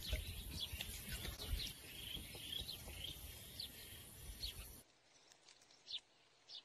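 Faint outdoor background with small birds chirping now and then. About five seconds in, the low background noise drops out abruptly, leaving only scattered single chirps.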